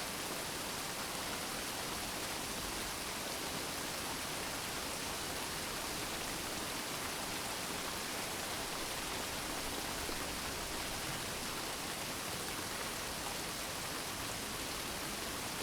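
Steady, even sound of gentle rain falling, a soft continuous patter.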